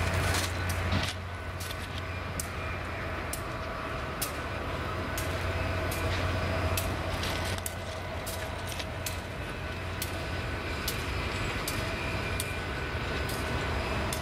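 Passenger railroad coaches rolling past, their steel wheels clicking over rail joints at irregular intervals over a steady low rumble that is louder in the first second.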